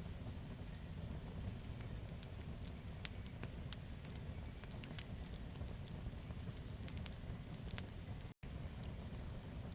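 Wood campfire burning, with frequent sharp crackles and pops over a low steady rumble of the flames. The sound cuts out for a split second near the end.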